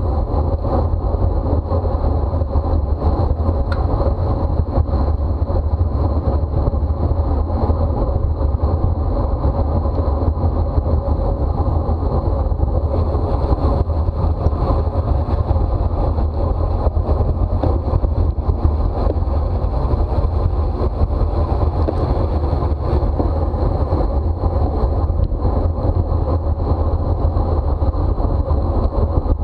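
Steady wind noise on the microphone of a camera carried by a bicycle racer riding at speed, heaviest in the low range, with a faint steady high line throughout.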